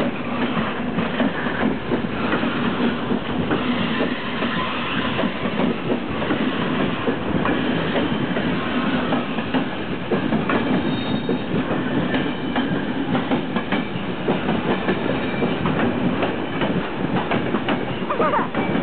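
Steady rumble of a double-decker push-pull commuter train at the platform, with scattered clicks and knocks from the running gear.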